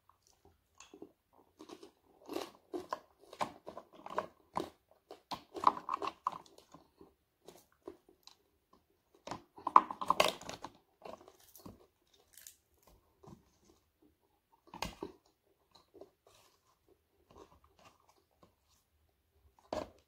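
A person chewing and crunching crisp fried dried fish close to the microphone, in clusters of crunchy bites. The crunching is loudest about halfway through and thins out to a few scattered bites afterwards.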